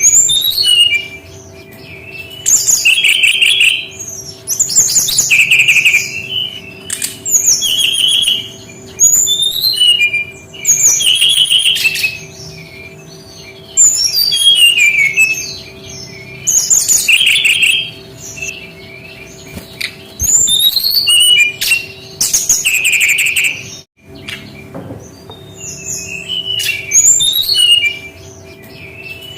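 Sikatan rimba dada coklat (SRDC, a jungle flycatcher) singing: loud phrases of quick, sweeping whistles and trills, repeated about every two to three seconds, over a faint steady hum.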